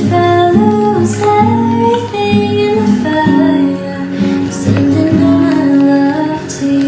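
Acoustic guitar music with sustained, changing notes.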